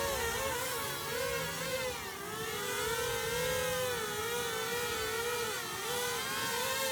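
DJI Flip drone's propellers whining, the pitch wavering up and down without pause as the motors keep changing speed, the way it does while fighting the wind to hold its balance.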